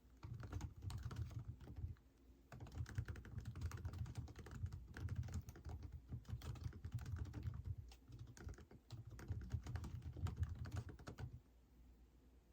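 Typing on a computer keyboard in fast, continuous runs of keystrokes. The typing breaks off briefly about two seconds in and again about eight seconds in, then stops shortly before the end.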